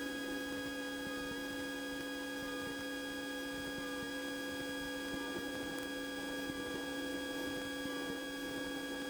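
Steady, even hum inside a Cessna 150 cockpit on its landing approach, picked up through the intercom audio feed. It is a fixed drone of several tones that does not change.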